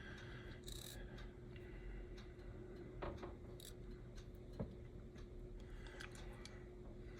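Faint, scattered small clicks and taps of tiny HO slot car parts and spacers being handled, with a couple of brief light scrapes, over a faint steady hum.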